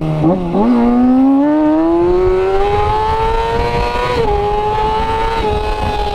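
Kawasaki ZX-6R inline-four sport bike engine accelerating, its pitch climbing steadily for about four seconds, dropping a little about four seconds in, then easing slowly down. Wind rumbles on the microphone underneath.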